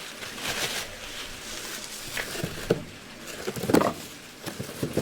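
Handling noise from unwrapping and turning over a small metal model's canopy: a soft rustle of wrapping, then a scatter of light clicks and knocks, busiest just under four seconds in.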